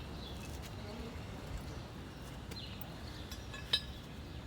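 Faint clicks and taps of hand tools and small metal engine parts being handled, with one sharper click near the end, over a low steady rumble.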